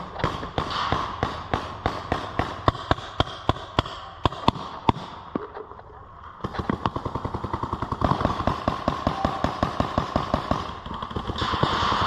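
Paintball markers firing in rapid strings of sharp pops, about three or four shots a second at first. A short lull comes about five seconds in, then a faster string.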